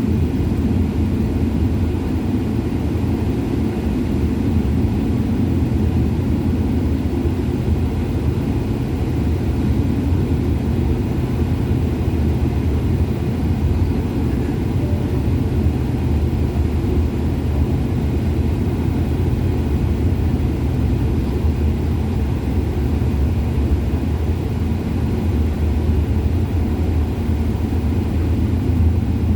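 Steady low rumble of an airliner in flight, its engine and airflow noise heard inside the passenger cabin.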